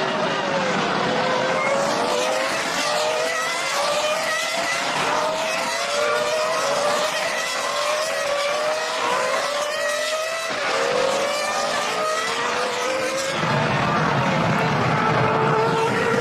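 2003 Formula One cars' V10 engines at racing revs. They accelerate through the gears, the pitch climbing and dropping back at each upshift about once a second.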